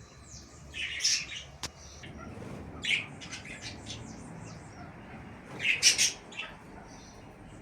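Cage birds chirping and squawking in short scattered bursts, loudest about six seconds in.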